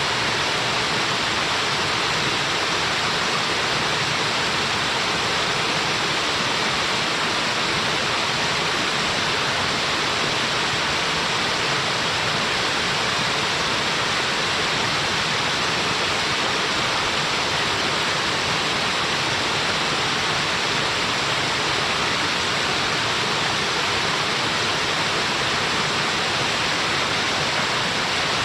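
Small waterfall rushing steadily, a constant even splashing of falling water.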